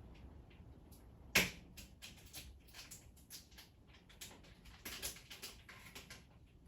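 A string of light, irregular clicks and taps, with one sharper knock about a second and a half in and a small cluster of taps around the five-second mark.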